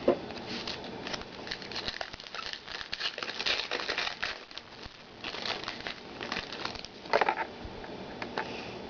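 Crinkling and rustling of a trading-card pack wrapper and cards being handled as a pack is opened, in many short irregular crackles.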